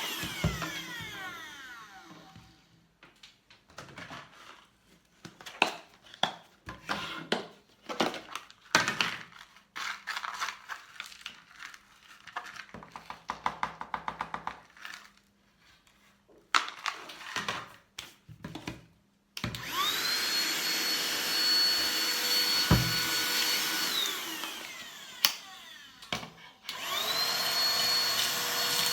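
SIMWAL cordless handheld vacuum cleaner's motor winding down after being switched off, followed by scattered clicks and scrapes. It is then switched on, spins up to a steady high whine, winds down a few seconds later, and spins up again near the end.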